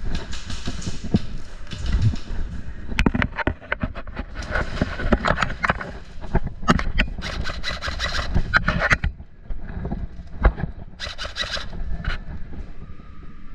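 Close rustling, scraping and clusters of sharp clicks in irregular bursts, the movement and handling noise of a body-worn action camera.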